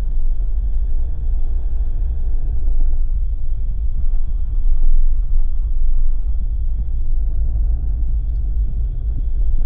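Steady low rumble of a Jeep on the move: road, tyre and engine noise.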